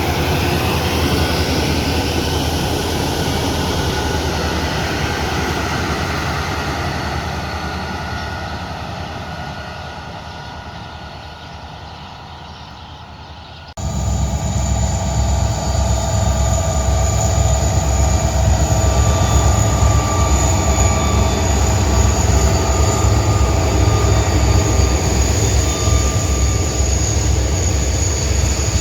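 A passing vehicle fades away over about fourteen seconds, its pitch falling. Then an abrupt cut to a loud, steady train sound: a deep rumble with a thin, steady high whine over it.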